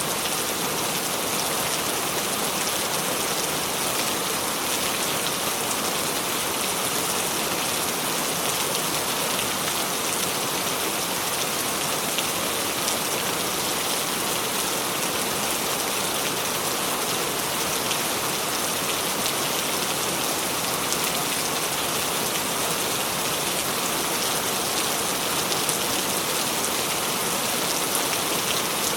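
Steady rain falling, an even hiss with the fine patter of individual drops, unchanging throughout.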